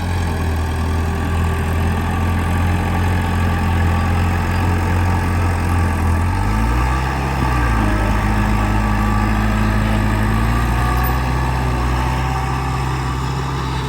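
Diesel engine of heavy earthmoving machinery running steadily close by. About six to seven seconds in, its speed rises and it holds at a higher pitch.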